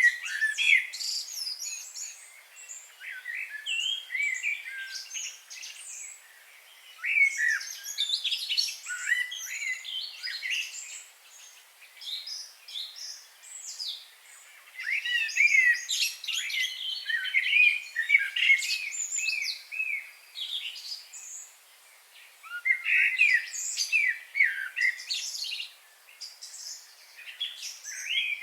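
Several songbirds chirping and singing, with quick high notes and trills coming in clusters and a few short lulls between them.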